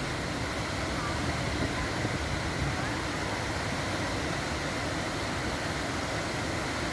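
Steady rush of water falling at a waterfall.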